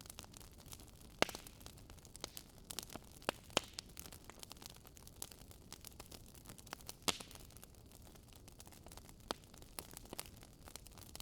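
Wood fire burning in a fireplace: a soft hiss with irregular sharp crackles and pops of burning logs, the loudest pops about a second in and about seven seconds in.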